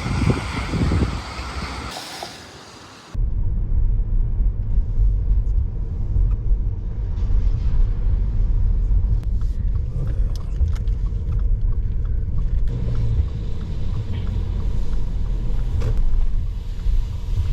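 A car driving, heard from inside the cabin: a steady low road rumble, which starts abruptly about three seconds in after a short stretch of wind-like noise.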